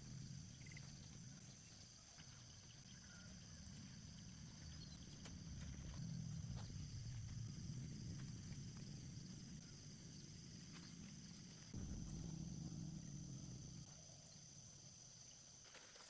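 Faint outdoor ambience: a steady high insect drone with a low rumble that swells and fades twice, plus a few soft clicks.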